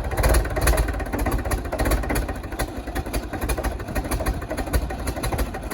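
International BTD6 crawler dozer's diesel engine running just after a cold start, with a fast, even pulsing beat.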